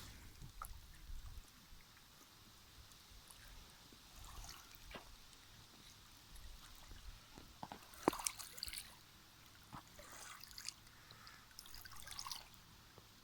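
Faint trickling water with scattered small drips and splashes, the strongest splash about eight seconds in.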